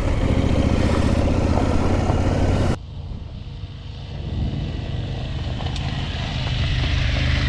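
Adventure motorcycle engine running under power on a dirt lane. A little under halfway through the sound drops abruptly to a quieter, duller engine sound, which then builds steadily louder toward the end.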